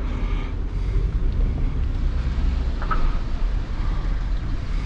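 Steady low rumble of a vehicle with wind noise on the microphone.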